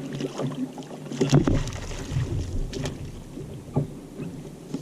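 Irregular knocks and clatter on a plastic sit-on-top fishing kayak, with water sloshing, while a hooked snapper is brought in alongside. A low rumble sets in about a second in.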